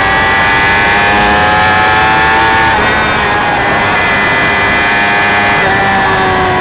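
Sport motorcycle with a Two Brothers aftermarket exhaust running under way, its engine note climbing slowly and dipping in pitch about three seconds in and again near the end, over a steady rush of wind on the microphone.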